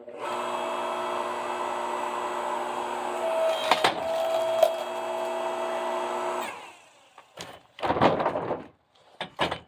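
Earthquake 5-ton electric log splitter running steadily as it pushes a log, which splits with two sharp cracks midway. The motor stops after about six and a half seconds, followed by a few wooden knocks.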